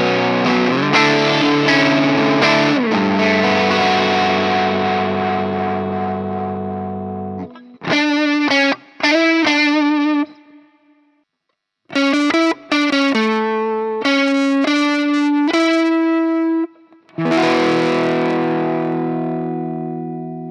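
Electric guitar through high-gain distortion: a long held chord, then a few single notes with vibrato, a short pause, a quick run of single notes and another ringing chord that slowly decays.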